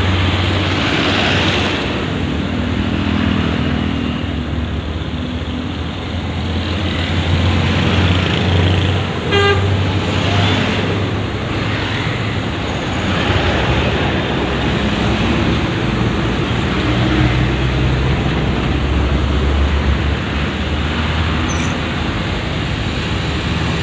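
Heavy road traffic with large trucks passing: steady engine rumble and tyre noise, with a short horn toot about nine seconds in.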